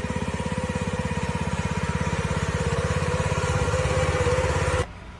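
An engine running steadily with an even, rapid chugging beat, stopping abruptly near the end.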